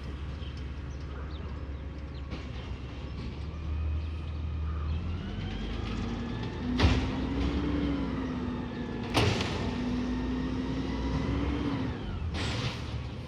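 Garbage truck engine revving up and holding a raised speed for several seconds, then dropping back to idle, as it drives the hydraulics. Two sharp metal bangs come during the revved stretch, about three seconds apart.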